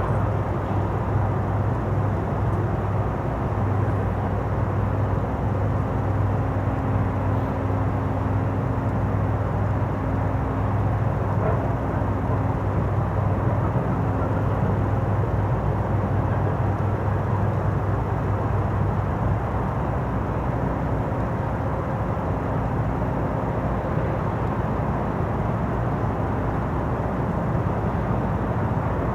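Steady low mechanical drone with a continuous hum, the low hum easing off about two-thirds of the way through.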